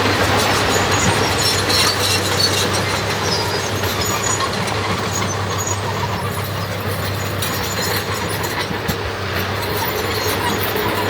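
The diesel engine of heavy earthmoving machinery runs steadily with a constant low hum, while short high metallic squeaks come and go over it.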